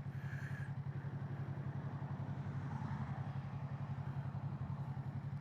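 Kawasaki Z650's parallel-twin engine running steadily at low revs as the bike is ridden: an even, low hum with a fast regular pulse.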